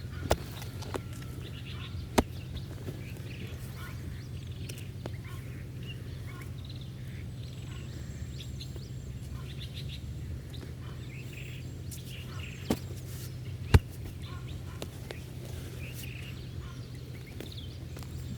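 Birds chirping and calling with a steady low hum underneath, broken by a few sharp knocks: two near the start and two close together about two-thirds of the way through.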